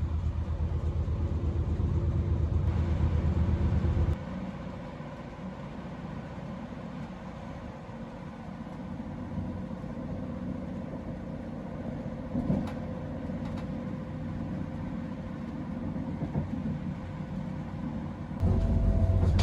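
Diesel train's underfloor engine running with a low rumble, heard from inside the carriage. About four seconds in the sound drops suddenly to a quieter steady rumble, with a single knock midway, and the louder rumble returns near the end.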